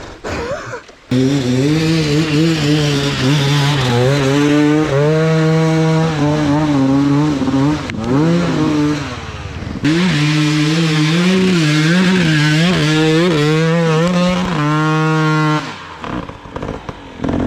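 Dirt bike engine revving hard and held at high revs, its pitch wavering up and down, starting about a second in, easing briefly about nine seconds in and dropping back near the end.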